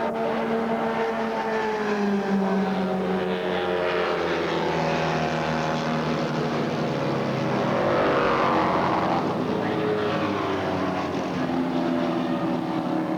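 Racing motorcycle engines running at speed, several at once, their pitches rising and falling as they pass, with the loudest pass about eight seconds in.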